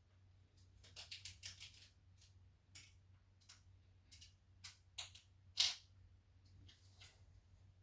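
Irregular light clicks and taps of small hardware and parts being handled during 3D printer assembly, with one louder knock about five and a half seconds in.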